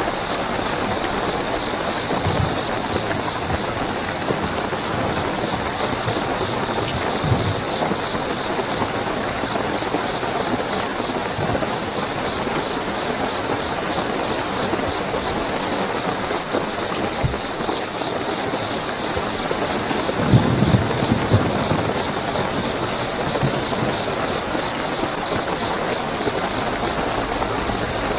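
Steady heavy rainfall with a continuous high-pitched chirping of night crickets over it. A few brief low thuds sound in the rain, the loudest cluster about two-thirds of the way through.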